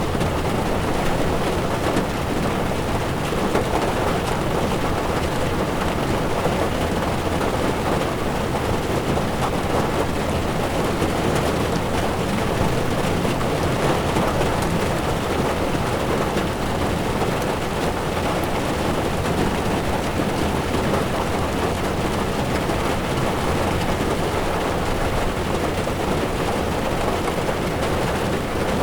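Heavy rain falling on a car's windshield and body, over the steady low noise of tyres rolling on a wet road, heard from inside the moving car. An even, unbroken wash of sound at a constant level.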